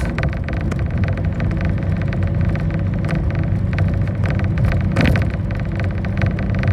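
Bus in motion heard from inside the cabin: a steady engine drone and road noise with frequent small rattles, and a louder jolt about five seconds in.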